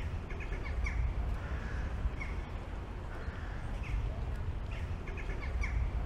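Birds giving short calls in small clusters, over the steady low background noise of an open, busy pedestrian square.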